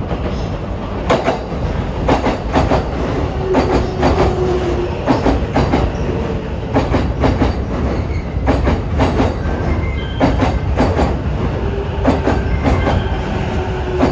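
Electric commuter train running along a station platform: a steady low rumble with wheels clacking in quick clusters over rail joints and points, and brief faint squealing tones from the wheels.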